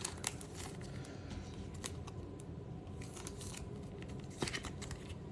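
Trading cards being handled: faint scattered clicks and rustles of card stock, with a sharper tick about four and a half seconds in.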